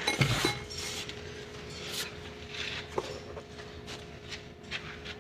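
Hand tools and metal parts being handled: a loud knock and scrape at the start, then scattered clicks and knocks, over a faint steady hum.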